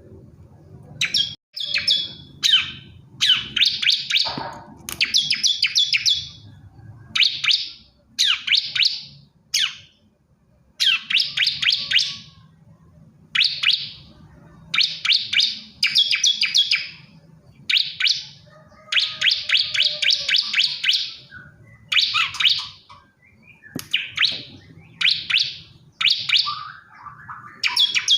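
Male bar-winged prinia (ciblek kristal) singing: short bursts of rapid, sharp chirping notes, repeated again and again with brief pauses between bursts.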